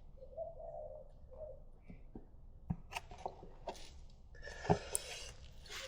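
Quiet handling noises: small clicks and knocks of a container and metal parts, with a short hissing, trickling stretch near the end, as used oil is poured back into a Kawasaki KD80 dirt bike.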